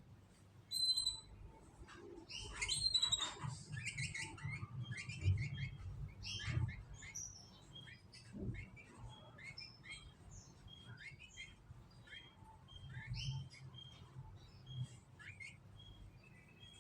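Canaries chirping and twittering, many short calls and brief trills one after another, over a faint low hum.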